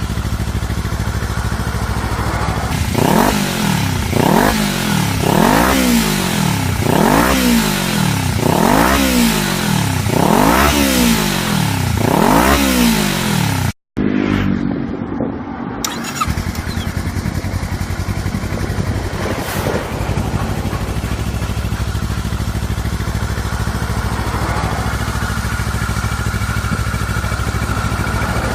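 Kawasaki Ninja 400R's parallel-twin engine through an aftermarket slip-on muffler, idling, then revved about nine times in quick blips roughly a second apart. After a brief dropout it settles back to a steady idle.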